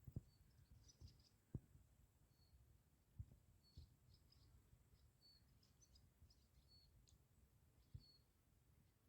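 Faint, short high chirps of a small bird, repeated irregularly about once a second, with a few soft low knocks in between.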